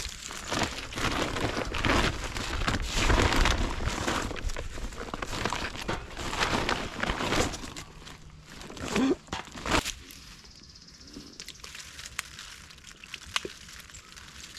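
Close rustling and crunching for about ten seconds, then it drops to a quieter background with a faint, steady high-pitched hum and a few light clicks.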